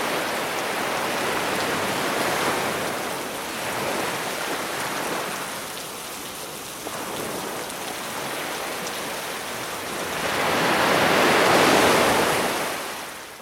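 Sea waves washing onto a beach, a steady rush that swells and ebbs, with the biggest surge about ten to twelve seconds in, then fading out at the very end.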